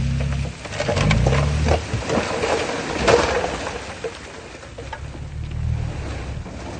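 Heavy diesel construction machine working, its engine revving up twice in the first two seconds, with clattering and scraping of stone. It settles to a lower, steadier run in the second half.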